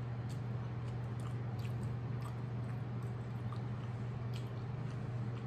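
Close-up chewing of French fries with the mouth closed, faint scattered clicks, over a steady low hum.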